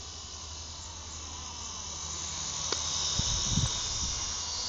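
Radio-controlled model helicopter in flight, a steady high hissing whine from its rotors and motor, over wind rumbling on the microphone. A few low thumps of wind buffeting come about three seconds in as the sound swells.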